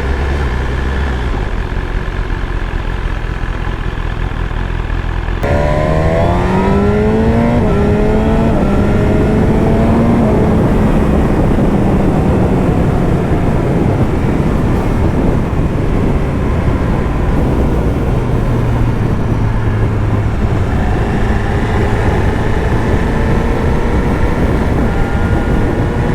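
BMW S1000RR's inline-four engine under way: running low and steady at first, then accelerating with a rising whine about five seconds in. It then settles into a steady cruise under road and wind noise.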